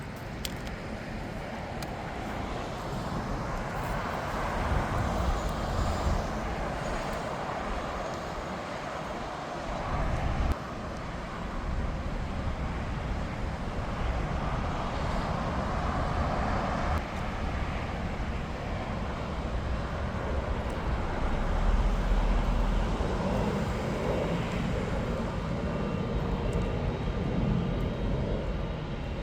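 Jet airliner engines running: a steady rumble and roar that swells and eases, loudest a little past the middle.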